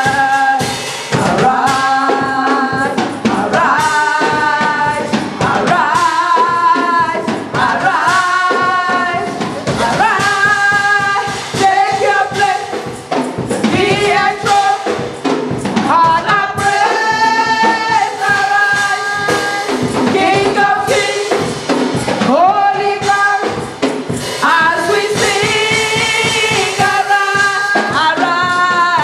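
Gospel choir singing a worship song, held, sliding notes over a band with tambourine and drums.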